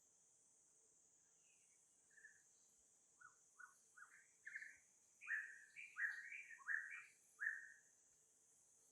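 A run of about a dozen short chirping calls that starts about two seconds in and grows louder toward the end, with some notes stepping down in pitch, over a steady high insect-like hiss.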